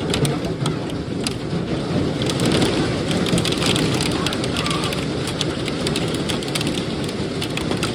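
Hail and heavy rain pelting down, a dense, steady patter studded with many sharp individual hailstone impacts.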